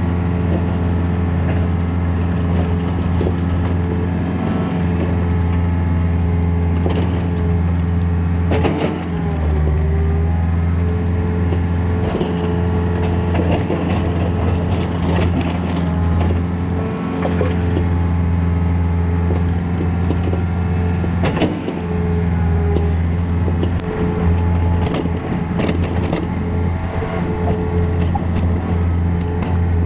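Takeuchi TB153FR mini excavator's diesel engine running steadily, dipping briefly under hydraulic load about a third of the way in and again past the middle, with scattered knocks as it works.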